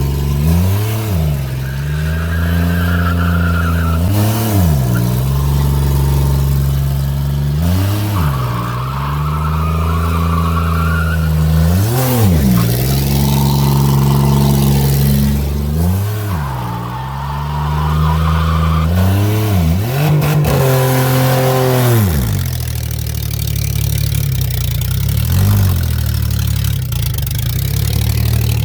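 Buick Century's engine idling and being revved again and again, each rev rising and falling back, about every four seconds for some six revs. It then settles to a steady idle with one small blip near the end.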